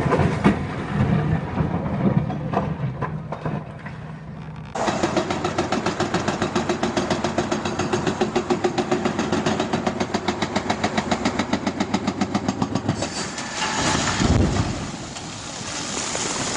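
Vehicle engine: a low rumble at first, then from about five seconds in a louder, fast, even pulsing of several beats a second that stops abruptly near the end.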